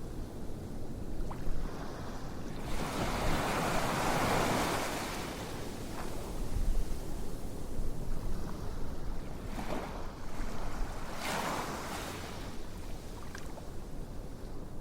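Ocean waves washing in and drawing back as a steady rush, with two larger swells, one early and one about two-thirds of the way through, and a few faint ticks.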